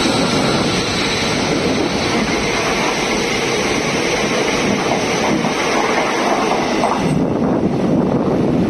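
A freight train of open box wagons running through at speed, its wheels rumbling and clattering on the rails. The noise thins about seven seconds in as the last wagons pass and draw away.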